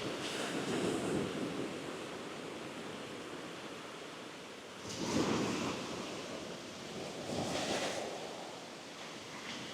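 Rough sea surf breaking and washing ashore, swelling loudest about five seconds in and again near eight seconds, with some wind on the microphone.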